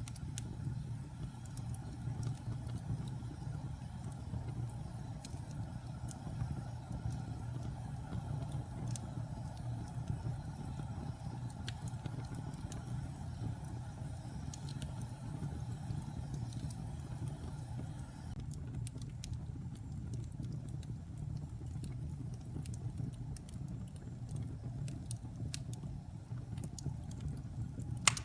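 Wood fire burning in a fireplace: a steady low rumble of the flames with scattered small crackles and pops, more frequent in the second half, and one sharper pop at the very end.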